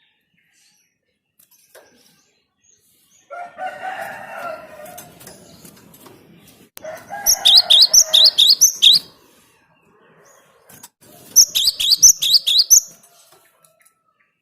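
Cinereous tit (gelatik batu) calling. A harsh, lower chattering call comes first, then two bursts of rapid, sharp, high-pitched repeated notes, about a second and a half each.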